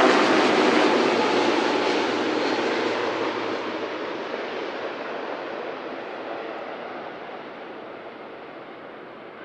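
Boeing 787-9 airliner's jet engines passing on landing approach and fading steadily as it moves away, the high hiss dying off first.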